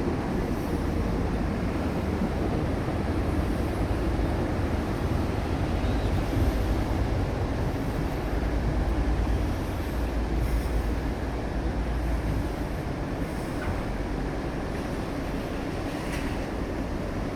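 Steady low rumble of a moving passenger train, heard from inside a coach car.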